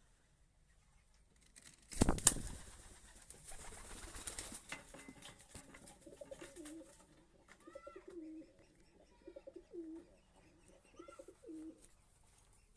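Pigeon cooing in a series of low, bending phrases over the last two-thirds, after a loud sudden burst of noise about two seconds in.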